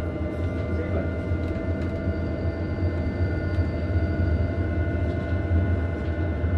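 Electric Bernina line train running steadily, heard from inside the passenger carriage: a continuous low rumble with a faint steady hum and whine above it.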